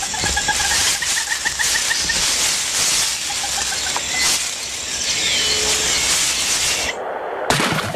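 Amazon rainforest canopy ambience: a dense, steady high-pitched hiss with rapid repeated chirping calls in the first couple of seconds and a short gliding whistle midway. Near the end there is a short, loud rustle.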